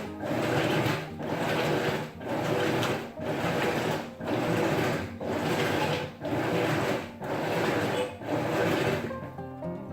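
Maytag top-load washing machine agitating: a swishing churn of water and clothes that repeats about once a second as the agitator strokes back and forth, with a low hum under it. It stops near the end as guitar music comes in.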